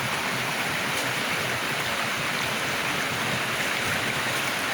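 River water running and splashing over rocks, a steady rushing hiss.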